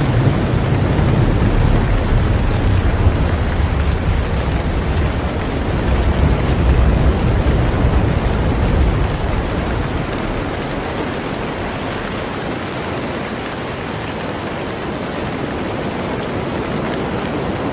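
Heavy rain falling on a boat as a steady, even hiss. A low rumble lies under it for the first half and fades out about halfway through.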